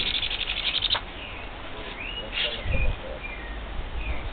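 Begging calls of a hand-raised baby parrot at feeding time. A fast rattling burst of about a dozen high notes fills the first second, and a shorter call comes about two and a half seconds in.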